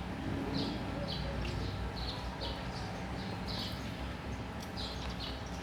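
Small bird chirping repeatedly in short notes, about two a second, over a low steady hum.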